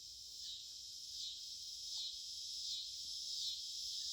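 Chorus of cicadas calling in a steady high drone that swells softly about every three-quarters of a second.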